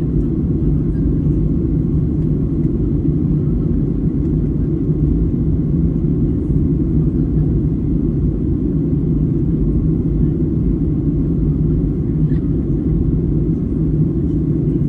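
Steady low rumble inside the cabin of a Boeing 737-800 airliner in flight, engine and airflow noise with a constant low hum.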